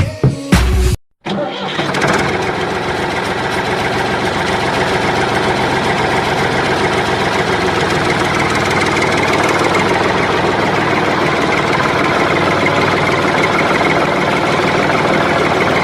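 An engine starting: a few short bursts, then running steadily with a fast even rattle.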